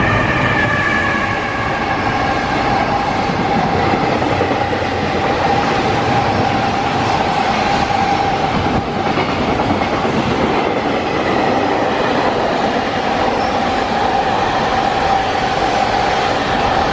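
Freight train wagons rolling past on the track: a continuous loud rumble and rattle of steel wheels on rail, with a steady high ringing tone running through it.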